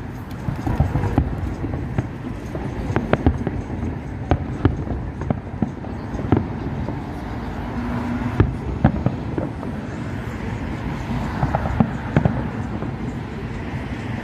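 Fireworks bursting at a distance: irregular sharp bangs and crackles over a steady low rumble.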